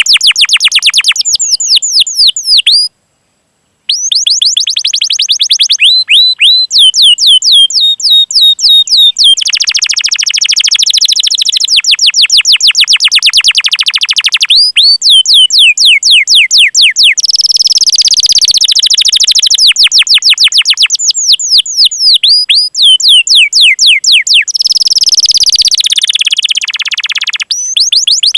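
Domestic canary singing a long, loud song of rapid, repeated falling chirps ('cuit cuit'), run together at times into fast rolls. There is a short break about three seconds in.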